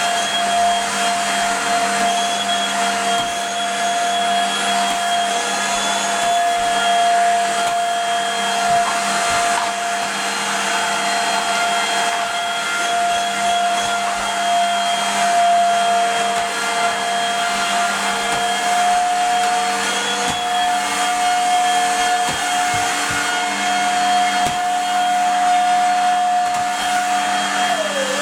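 Vacuum cleaner running steadily, a continuous motor whine with a rushing airflow sound.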